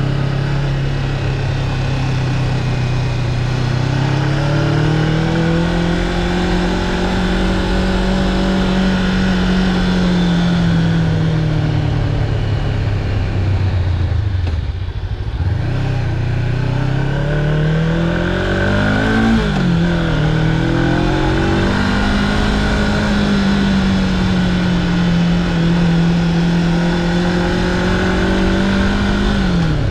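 Honda CB500X's parallel-twin engine heard from on the bike while riding, over steady wind noise. The engine note eases down to a low about halfway through as the bike slows, then climbs under throttle. It drops suddenly with an upshift a little after two-thirds of the way, holds steady, and drops again with another shift at the very end.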